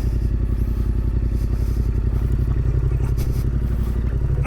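Adventure motorcycle's engine running steadily at low revs, a fast even firing beat, as the bike descends a steep dirt track.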